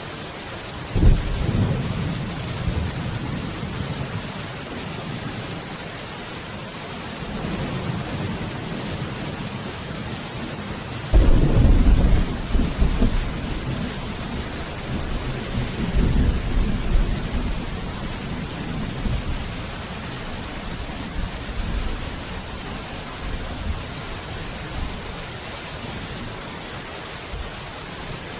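Steady heavy rain with rolls of thunder: a sharp crack-and-rumble about a second in, a louder, longer peal about eleven seconds in, and further rumbling that dies away over the following seconds.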